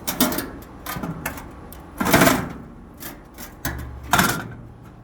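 Metal grill grates clattering and scraping as they are lifted out of a gas grill and handled, with a loud clank about two seconds in and another near the end.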